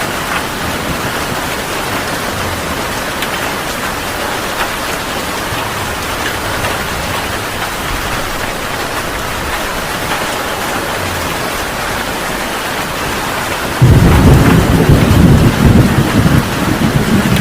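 Heavy rain falling in a steady hiss; near the end a sudden loud thunderclap breaks in and rolls on as low rumbling.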